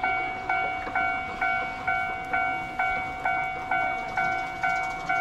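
Japanese railroad crossing warning bell ringing, a repeated bell tone about twice a second, each strike fading before the next.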